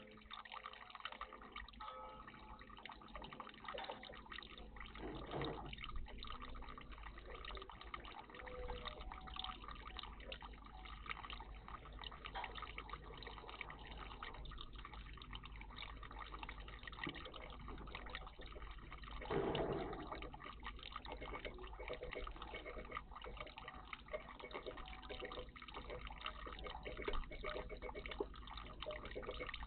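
Water trickling and dripping in a garden bird bath, with many small splashes and a louder splash about two-thirds of the way through.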